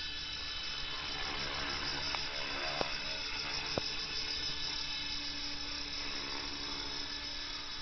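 Radio-controlled model helicopter hovering, its motor and rotors giving a steady high whirring whine, with three brief clicks between about two and four seconds in.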